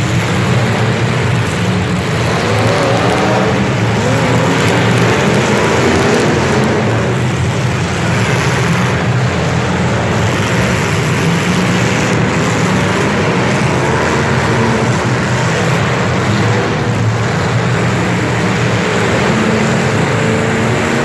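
A motor vehicle's engine running steadily and loudly, with its pitch wavering slightly now and then.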